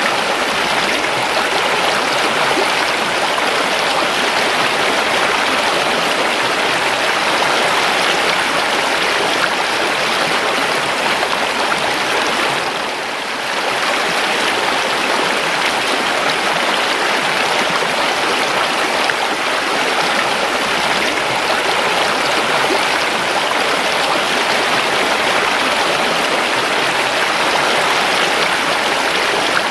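River water flowing: a steady, even rush of running water, briefly softer about thirteen seconds in.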